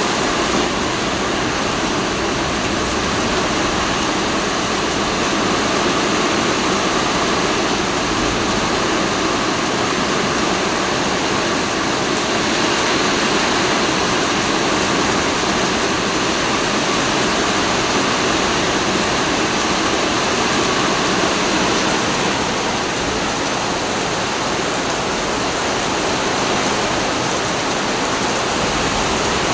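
Storm wind and heavy rain making a loud, steady rushing noise.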